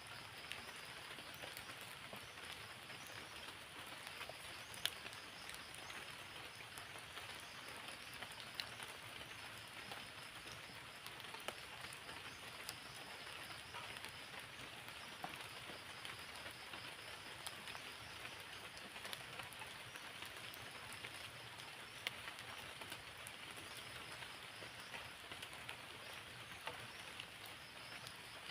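Steady rain falling, with scattered sharp drips of single drops landing close by.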